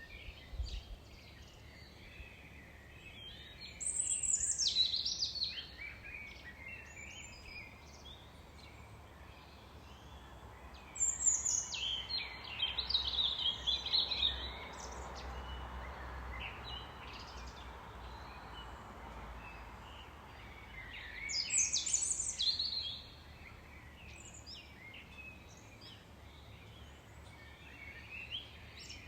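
Wild songbirds singing in short bouts of chirps and trills every several seconds, over a steady faint background hiss.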